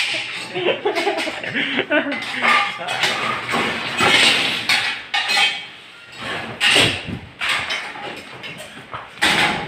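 Indistinct conversation among several people, with some light clattering in the background.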